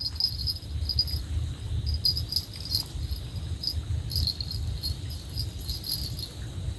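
Insects chirping in short, repeated pulsing trains, high-pitched and cricket-like, over a steady low rumble.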